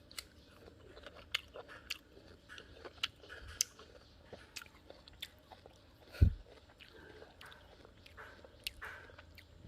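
Crisp guava being bitten and chewed close to the microphone: a scatter of short, sharp crunches, with one loud low thump about six seconds in.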